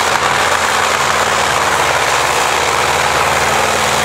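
Supercharged 18-cylinder radial aircraft engine of a tractor-pulling machine, running loud and steady without revving.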